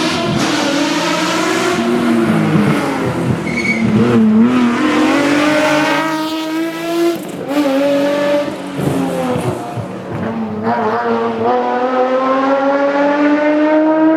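Nissan 370Z GT+ rally car's V6 engine at full throttle, its pitch climbing under acceleration and dropping back at each gear change, several times over.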